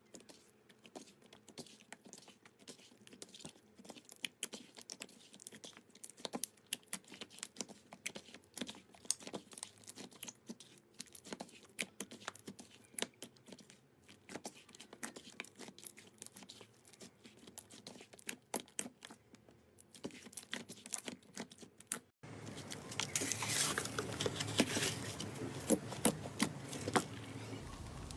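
Slime being pressed and stretched by hand, giving a dense run of small, sharp clicking pops. About 22 seconds in, a cut brings louder, denser crackling.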